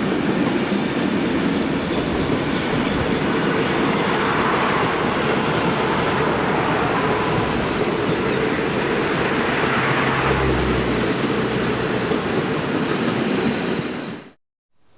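Diesel-hauled passenger train running past, a steady rumble of wheels on the rails, cutting off abruptly near the end.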